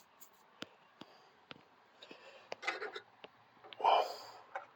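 Light handling noises: a few scattered small clicks and a short rubbing, then a brief breath or sniff just before 4 s.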